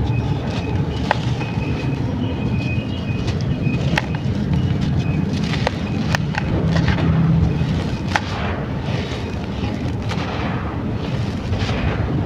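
Chunks of brown sand-clay crumbling, with sharp crackles and snaps scattered over a steady close-up crunching rumble.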